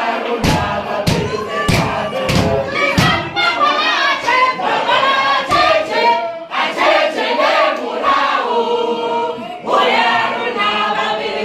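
A group of voices singing together, with a regular thudding beat of just under two strikes a second.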